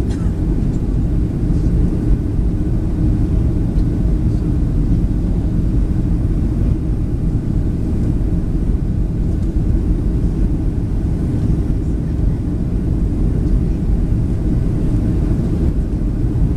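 Steady cabin rumble of a Boeing 737-700 in flight: its CFM56-7B engines and the rush of air over the fuselage, heard from inside the passenger cabin as a deep, even drone.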